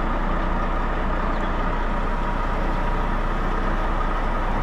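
Semi truck's diesel engine running in a steady drone, with no changes in pitch.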